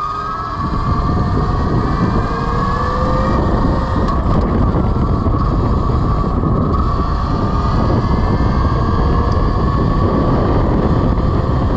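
Velimotors VMX12-F 12 kW electric motorcycle under way, its drive whining in a steady high tone that climbs slowly as it gathers speed toward top speed, under heavy wind rumble on the microphone.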